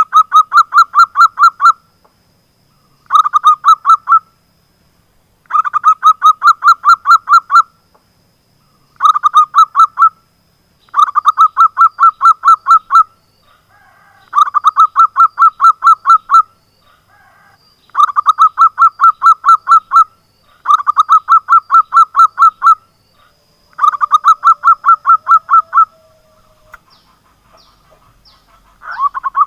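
Zebra dove (perkutut) calling in repeated bouts of quick staccato notes. About nine runs of roughly two seconds each are separated by short pauses.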